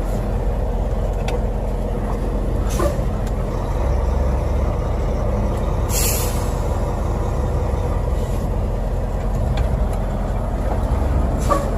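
Delivery truck's diesel engine running steadily at a low rumble, with a short hiss of air about six seconds in and a fainter one near three seconds.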